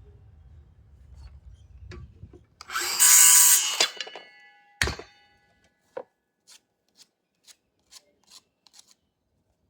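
Wood rubbing or sawing in a loud burst lasting about a second and a half, with a ringing note through it. A sharp knock follows about a second later, then a run of faint ticks.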